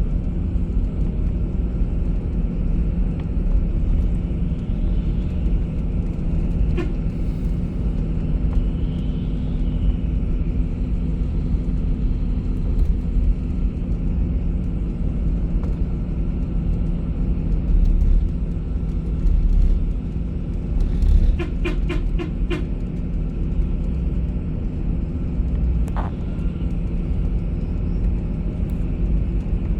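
Steady low rumble of a bus driving, with engine drone and road noise. About two-thirds of the way in comes a quick run of about six clicks, and there are a couple of single clicks at other moments.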